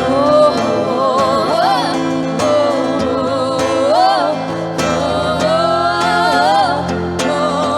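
A singer holding wordless 'oh' runs that bend up and down in pitch, over steadily strummed guitar chords.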